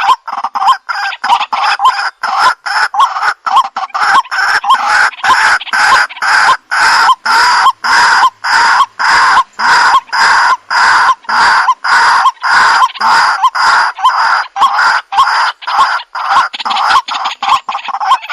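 Waterhen calling: a loud, unbroken run of short, harsh repeated notes, about two to three a second.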